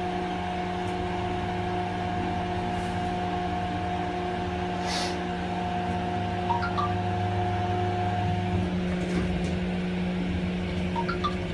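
Hydraulic elevator's pump motor running with a steady hum of several held tones; one of its tones drops out about eight and a half seconds in. This is the motor that is called bad.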